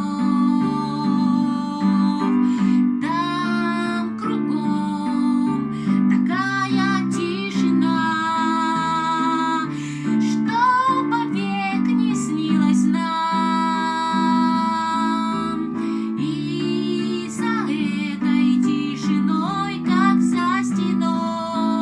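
Acoustic guitar strummed in a steady chord pattern, with a woman singing a held, wavering melody over it.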